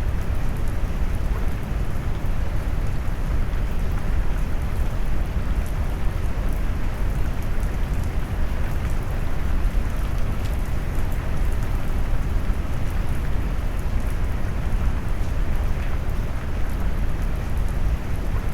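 Mixed rain ambience blended with brown noise: a steady, deep rushing hiss heavy in the low end, with faint scattered raindrop ticks on top.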